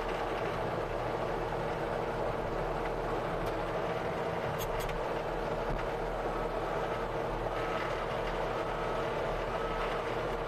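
Tracked skid steer's engine running steadily, with a couple of light clicks midway.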